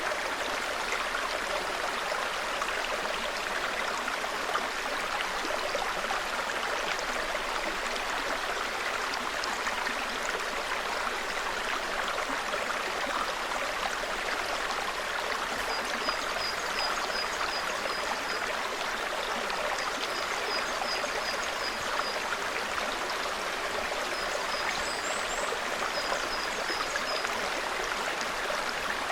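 A small forest stream babbling steadily over rocks. From about halfway, a bird gives several runs of quick, thin, high-pitched chirps.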